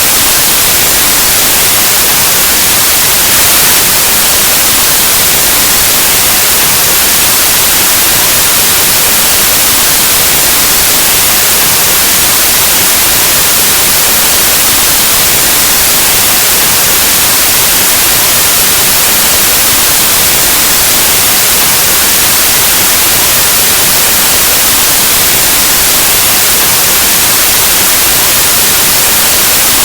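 Loud, steady white noise: an even, unchanging hiss like the static of an analog TV or radio.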